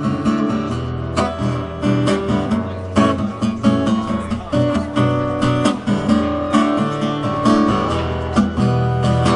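Acoustic guitar strummed in a steady rhythm, an instrumental passage of a live folk-pop song with no singing.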